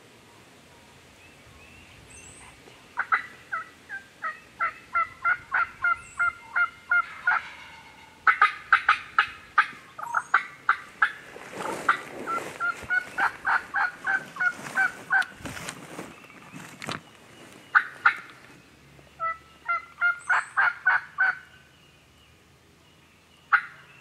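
Turkey yelping: several long runs of quick, evenly spaced yelps, about three a second, with a rush of noise in the middle.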